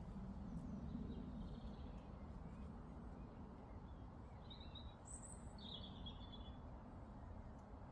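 Quiet meadow ambience: a steady low background rumble, with a few short, faint bird chirps, a handful of them about halfway through.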